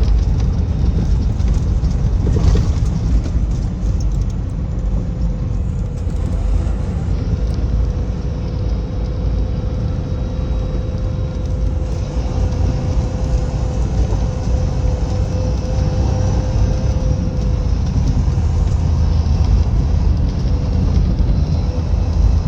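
A car travelling at highway speed: a steady low rumble of engine and tyres, with a faint held whine through the middle.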